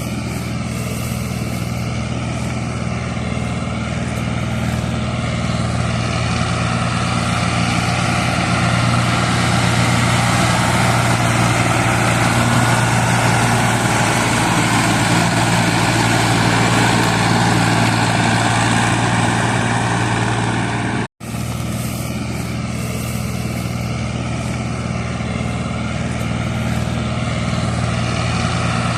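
Farm tractor's diesel engine running steadily under load, a little louder through the middle stretch. The sound cuts out for an instant about two-thirds of the way through, then resumes.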